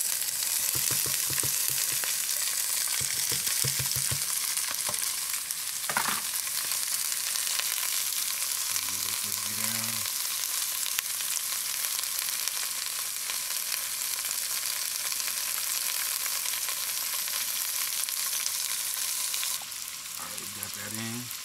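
Chopped onions and bell peppers sizzling in hot rendered bacon and pork belly fat in a pan, a steady loud frying hiss that eases a little near the end.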